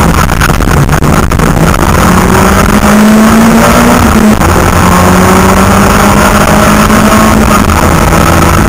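Rally car engine heard from inside the cabin, running hard at high revs on the stage. The revs climb about three seconds in and drop sharply just past four seconds, hold steady, then fall away near the end.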